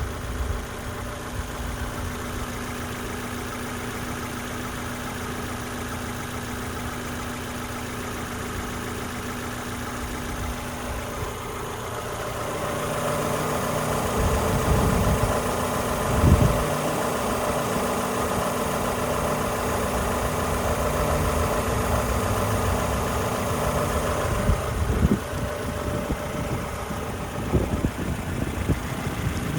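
1997 Mazda MX-5 Miata's 1.8-litre four-cylinder engine running steadily. About a third of the way in it grows gradually louder and busier, holds there for about twelve seconds, then eases back, with a few short low thumps near the end.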